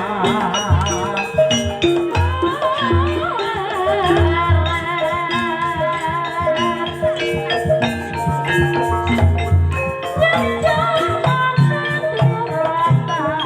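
Live Javanese gamelan music in campursari tuning for an ebeg dance: ringing metallophone notes over deep, repeated drum strokes, with a singer's voice wavering in pitch in places.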